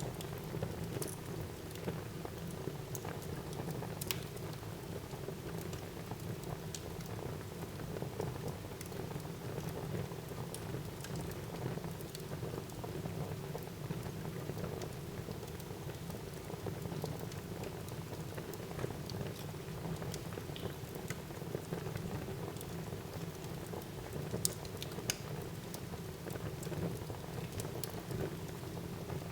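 Wood fire burning in a fireplace: a steady low rushing crackle with scattered sharp pops and snaps, a small cluster of them about three-quarters of the way through.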